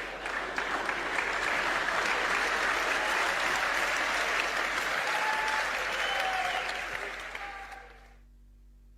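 A group applauding with steady clapping that fades out about eight seconds in.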